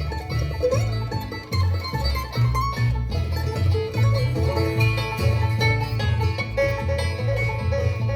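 Bluegrass string band playing an instrumental, with banjo, guitar and bass, the bass playing a steady run of low notes under the plucked melody.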